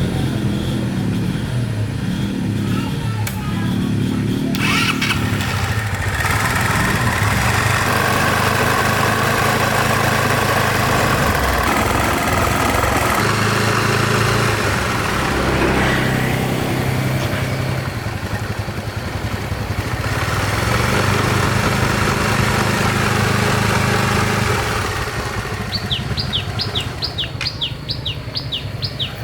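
Honda CB750's inline-four motorcycle engine running, its level shifting now and then. Near the end comes a quick run of about eight short high chirps.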